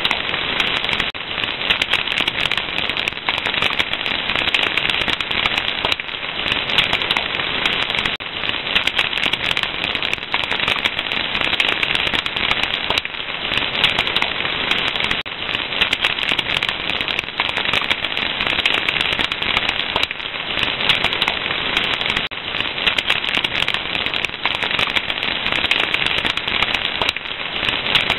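A fire crackling: a dense, unbroken stream of small pops and snaps at an even level.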